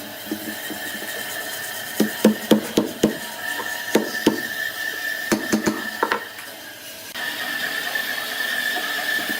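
Sharp wooden knocks, about a dozen in uneven runs over a few seconds, with a steady high whine from a running machine underneath.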